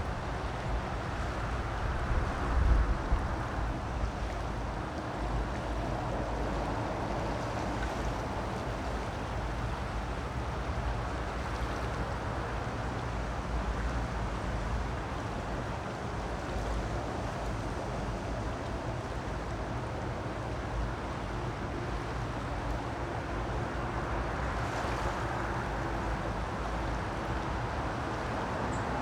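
Creek water rushing steadily, an even noisy wash with a low rumble underneath.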